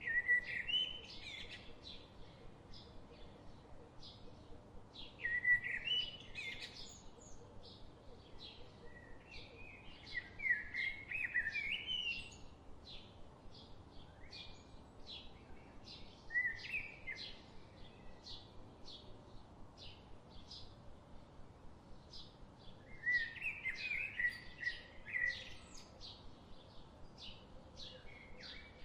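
Songbirds singing: one bird repeats a short, quick warbled phrase every five or six seconds, over a steady series of short high chirps about twice a second from another bird.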